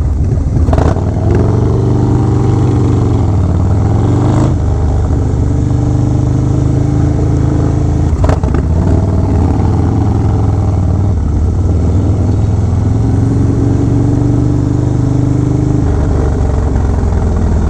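Harley-Davidson Low Rider S V-twin running loud through an aftermarket Fab 28 exhaust while riding at a steady cruise. The engine note holds level for stretches and shifts pitch a few times as the revs change.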